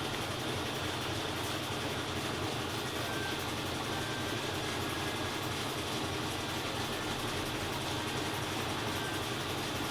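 GE Ecoperformance 15 kg washing machine running steadily through a long cycle, a continuous even whirring drone with no breaks, its drum spinning out the laundry.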